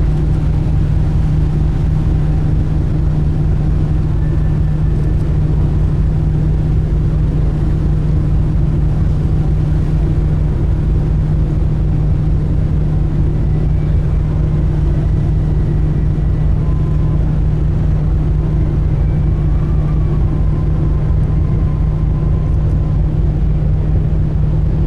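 Sightseeing cruise boat's engine running steadily while under way: a loud, unchanging low drone with a strong hum, heard on board.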